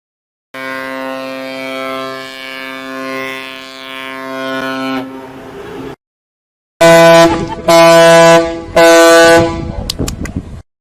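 A long, steady horn blast lasting about five seconds, then, after a short pause, three loud horn honks of about a second each.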